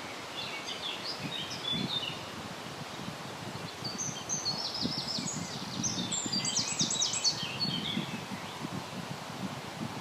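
Songbird singing in short, quick chirping phrases, the longest and busiest in the middle, over low wind noise.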